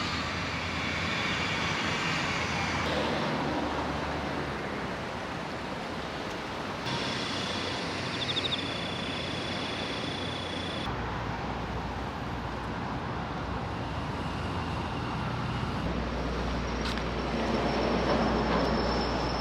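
Steady rumble and hiss of a running vehicle, changing abruptly several times.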